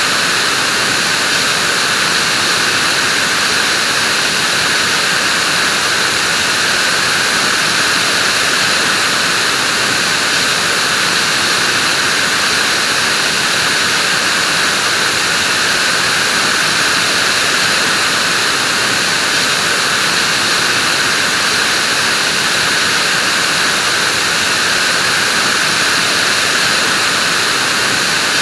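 Vacuum cleaner running steadily: an even, unbroken rushing hiss of air and motor, strongest in the upper-middle and high range.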